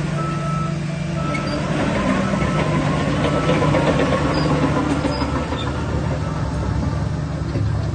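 Shantui DH17 crawler bulldozer's diesel engine running steadily under load, with a continuous clanking rattle of steel tracks and a few short squeaks in the first few seconds.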